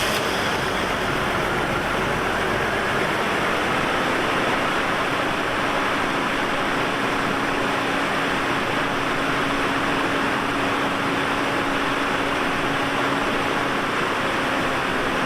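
2002 Chevy Trailblazer's 4.2-litre straight-six running at idle, a steady rushing noise. The engine is misfiring on cylinder number 1.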